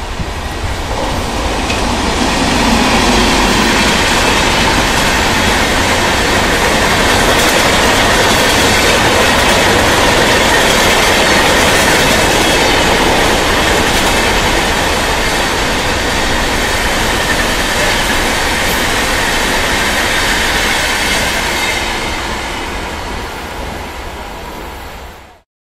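Electric-hauled express train of red LHB coaches running past at speed: a loud, steady rush of wheels on rail. It builds over the first few seconds, fades towards the end, then cuts off suddenly.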